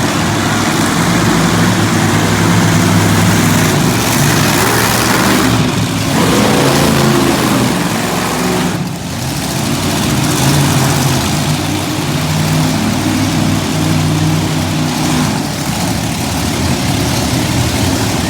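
Monster truck engines running loud, with a rise in pitch from revving about six seconds in.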